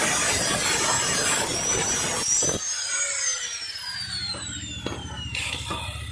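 Motorcycle engines revving hard through a single shared exhaust, a loud raspy racket that cuts off sharply about two and a half seconds in, leaving an engine idling low and steady. A high whistling tone sweeps downward through the middle.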